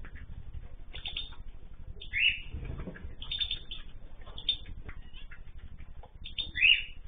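Mixed pet cage birds chirping and calling repeatedly, with two louder calls that fall in pitch, about two seconds in and near the end, and a brief low rumble in between.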